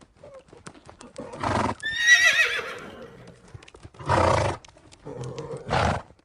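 A horse whinnying: one high, quavering call that falls in pitch about two seconds in. Around it are three short, loud, breathy blows and scattered light clicks.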